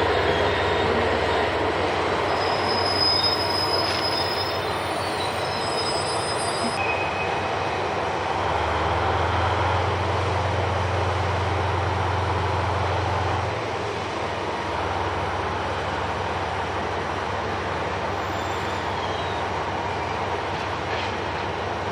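Freight train moving slowly on the rails, its wheels squealing in short high-pitched squeals during the first several seconds, over a steady low locomotive drone that grows louder for about five seconds in the middle.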